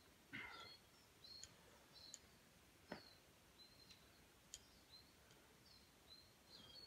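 Faint outdoor quiet with scattered short, high bird chirps and a few soft clicks.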